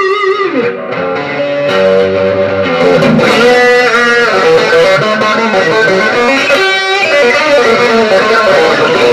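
Electric guitar, a Fender Stratocaster, played through a guitar effects rack: sustained notes and chords ring over one another, with pitch bends about a third of the way in and again near the end.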